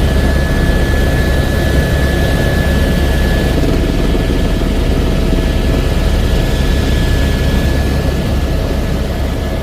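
Helicopter in flight: steady, loud rotor and engine noise with a constant high whine.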